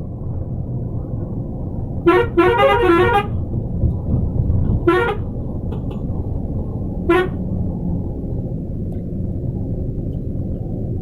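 Scania multi-axle coach sounding its horn three times over a steady low engine and traffic rumble: a longer warbling blast of changing notes about two seconds in, then two short toots.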